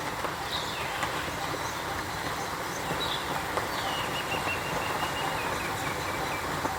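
A few short, high bird chirps and one longer, slightly falling call in the middle, over a steady rushing background noise.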